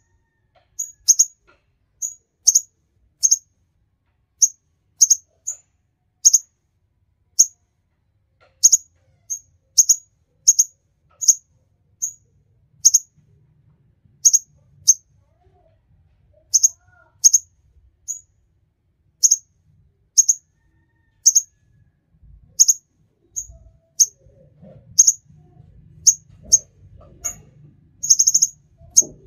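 Sunbird giving short, sharp, very high chirps one at a time, about one or two a second at uneven spacing, with a quick run of several chirps near the end.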